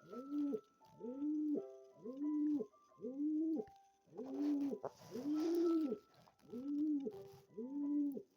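Domestic pigeon cooing: about eight short coos that rise and fall in pitch, roughly one a second, with a brief rustle near the middle.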